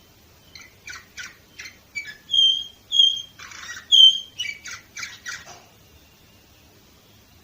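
Domestic canary singing one phrase of about five seconds: a run of quick chirps, three loud clear whistled notes with a short buzzy rasp between the last two, then more quick chirps.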